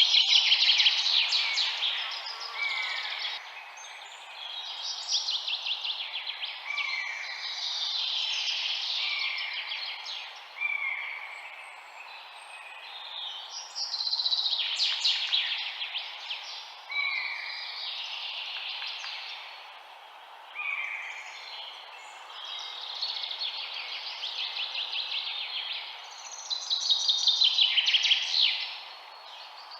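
Small songbirds singing: phrases of rapid high trills and chirps, each often opened by a short lower note, repeating every two to three seconds over a steady background hiss.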